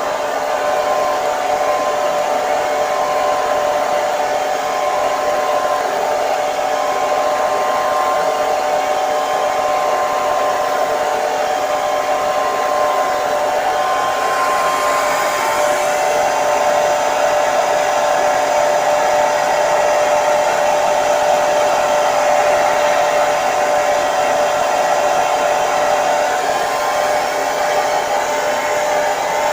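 Hair dryer running steadily: an even rush of air with a steady motor whine made of a few held tones. About halfway through, the whine shifts slightly and the hiss brightens.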